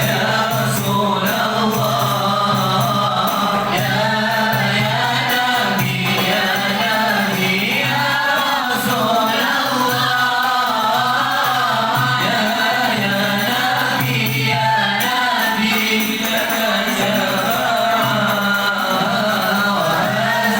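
A group of voices singing a qasidah, an Islamic devotional ode, together in unison as one continuous chanted melody.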